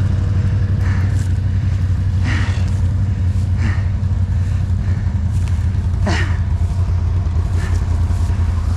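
ATV engine idling steadily, with no revving. A few short squeaks, falling in pitch, sound over it.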